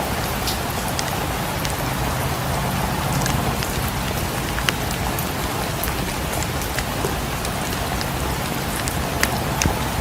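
Steady rain falling, with scattered sharp ticks and crackles here and there.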